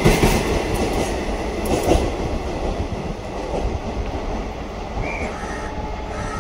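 ICF passenger coaches rolling past on the rails, their wheels clattering over the rail joints. There are sharp knocks near the start and about two seconds in, and the rumble fades as the last coach draws away.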